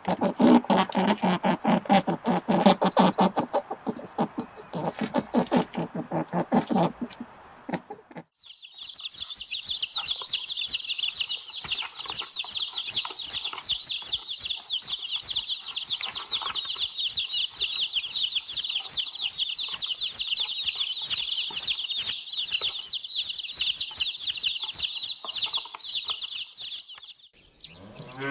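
Chickens: rapid, dense clucking for about the first eight seconds, then a steady, high-pitched chorus of many birds peeping at once for the rest.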